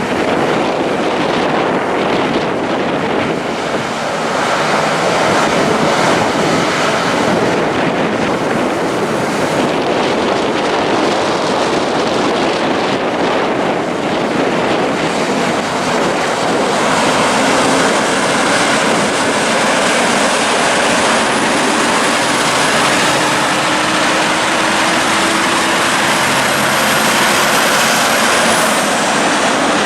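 Heavy trucks running past, a steady dense mix of diesel engine and tyre noise, with an engine note slowly rising over the second half as a truck pulls under load. Wind buffets the microphone.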